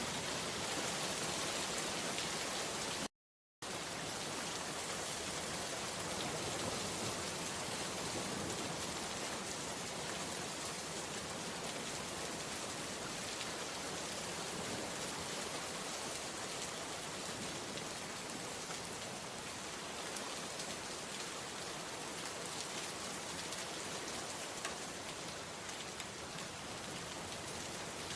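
Steady rain falling. It cuts out completely for about half a second, about three seconds in.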